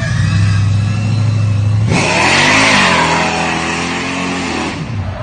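Car engine running at a steady note, then revving up sharply about two seconds in with a loud rushing hiss. It holds the higher revs and falls away near the end.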